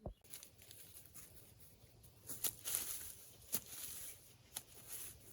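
A short thump, then dry rustling and crunching with scattered sharp clicks and snaps, louder from about two seconds in.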